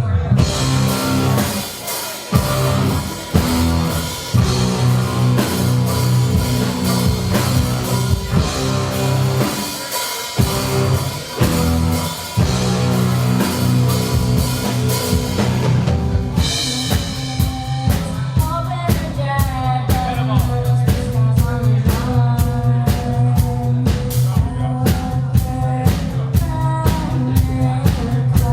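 Live rock music: a band playing with drum kit and guitar. About two-thirds of the way through, the drums settle into a steady, driving beat.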